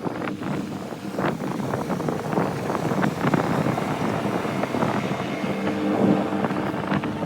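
Boat engine running steadily, with rushing wind and water noise over it.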